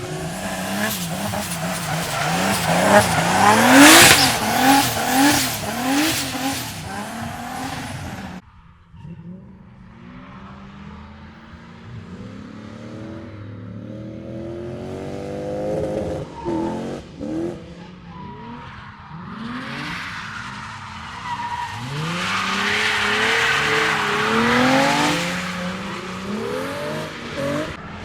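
Drift cars sliding past, engines revving up and down in quick repeated sweeps under loud tyre squeal. The sound cuts off suddenly about eight seconds in; then another car's engine builds up and a second loud slide with tyre squeal comes about twenty-two seconds in.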